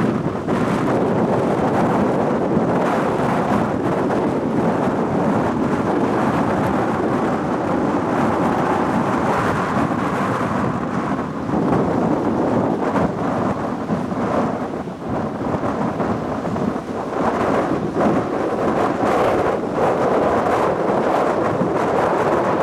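Airbus A320neo landing noise: a loud, steady roar of jet engines and rushing air, dipping briefly a few times around the middle.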